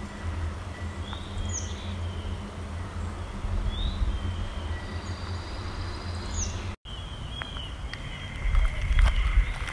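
Small birds chirping in short, repeated calls over a low steady rumble, with footsteps crunching on gravel and dirt in the last second or two. The sound drops out for an instant about two thirds of the way in.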